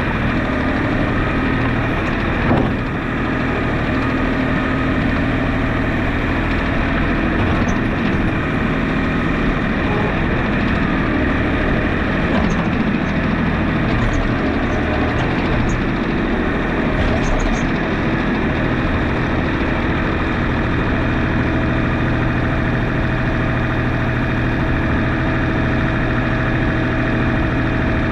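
Tractor engine running steadily, with a single knock about two and a half seconds in.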